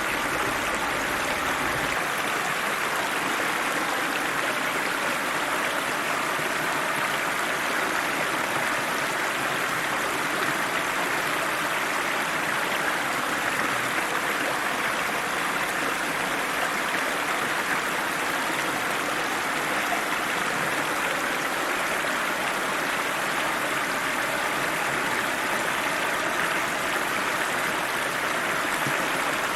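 River water rushing steadily over rocks, an even hiss of flowing water with no break. A faint low rumble beneath it drops away about two seconds in.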